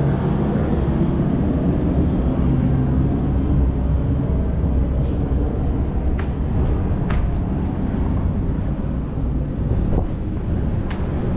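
Wind buffeting the microphone outdoors: a steady, loud low rumble, with a few faint clicks in the second half.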